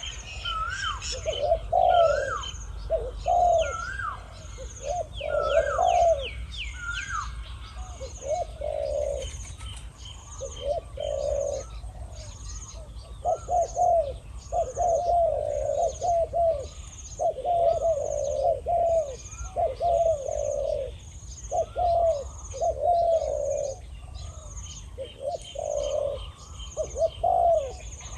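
Spotted doves cooing over and over, a decoy and a wild bird calling back and forth, their phrases at times overlapping. A short high chirp from another bird repeats steadily about once a second over the cooing.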